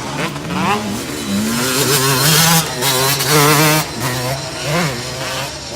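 Motocross bikes racing, their engines revving up and down as they go by.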